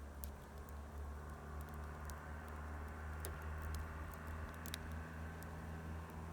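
Plum-wood bonfire crackling, with scattered sharp pops and ticks over a steady low rumble.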